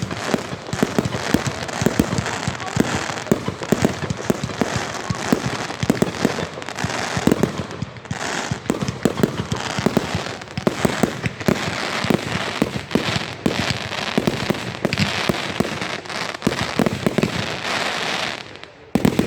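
Fireworks going off in a dense, continuous barrage of cracks and bangs over a steady hiss, easing off just before the end.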